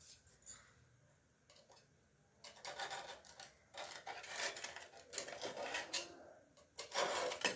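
Kitchen utensil scraping and clinking against cookware: a few light clicks at first, then irregular scraping for several seconds, loudest near the end.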